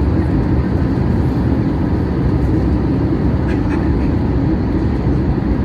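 Steady low rumble of engine and airflow noise inside a Boeing 737-800's cabin during descent.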